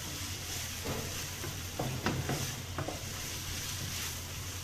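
Sliced onion, ginger and chilli sautéing in oil in a frying pan, sizzling steadily as they cook down to soften. A wooden spatula stirs them, scraping and knocking lightly against the pan a few times.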